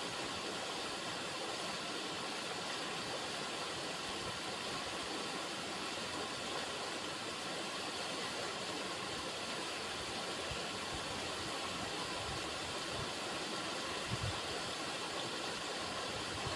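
River water running, an even, unchanging rush. A brief low thump comes near the end.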